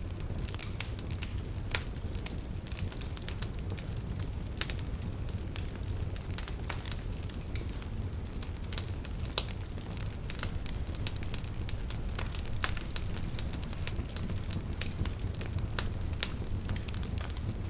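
Wood campfire burning, with irregular sharp crackles and pops over a steady low rumble of the flames; one louder pop about halfway through.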